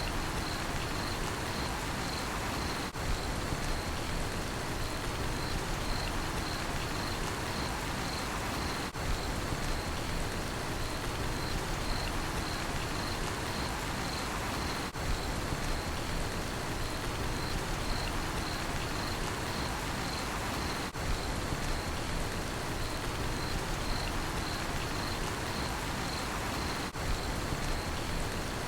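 Steady rain falling as an even hiss, with a cricket chirping in a regular high-pitched pulse. The level dips briefly about every six seconds.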